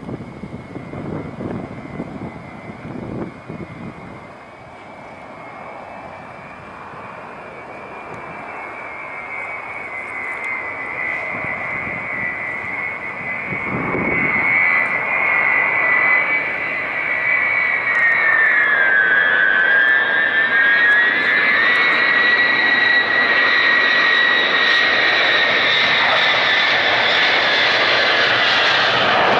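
Jet engines of an Ilyushin Il-76TD on approach to land: a high turbine whine over a broad rush that grows steadily louder as the aircraft nears. About two-thirds of the way through, the whine dips in pitch and then comes back up.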